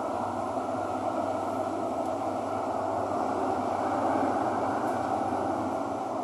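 Steady running noise of a Singapore MRT Thomson-East Coast Line train travelling between stations, heard inside the carriage, swelling slightly about four seconds in.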